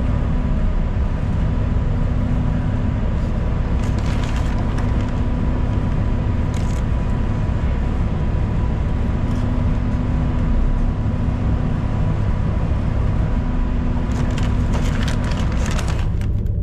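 Inside a moving city transit bus: steady low engine and road rumble with a constant hum. Clusters of sharp clicks and rattles come about four seconds in, again briefly a few seconds later, and near the end.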